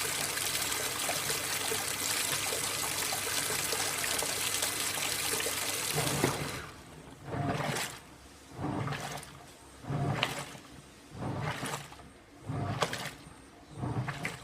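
AQUA MCW-C50 coin-operated top-loading washing machine filling its tub with a steady rush of water, which stops about six seconds in. The washing then begins, with the pulsator churning and sloshing the load in regular swells about every 1.2 seconds.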